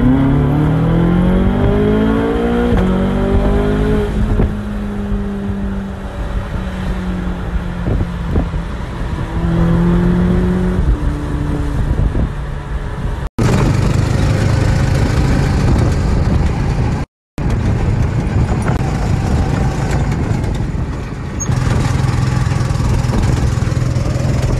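Ferrari California's V8 engine revving as the car accelerates, its pitch climbing over the first few seconds and then holding steady at speed. About 13 seconds in the sound cuts abruptly to other vehicle engine and road noise.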